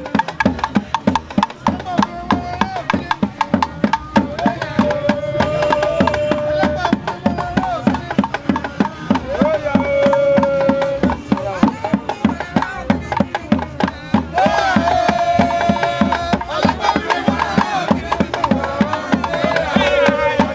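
Live Owigiri-style music: fast, dense drum percussion with voices singing held, wavering notes over it.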